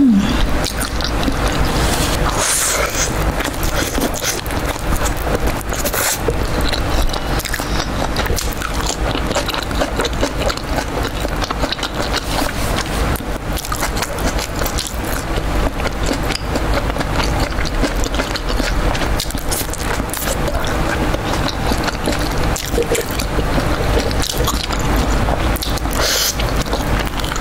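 Close-miked chewing and crunching of fried chicken in spicy sauce, a dense run of irregular crunches and wet mouth sounds.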